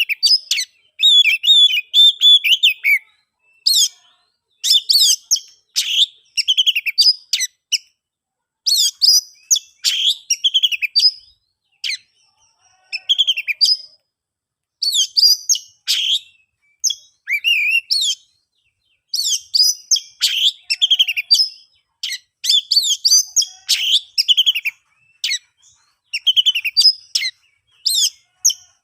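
Oriental magpie-robin (kacer) singing loudly: varied phrases of clear whistles and quick chirps, sweeping up and down in pitch, delivered in bursts with brief pauses between them.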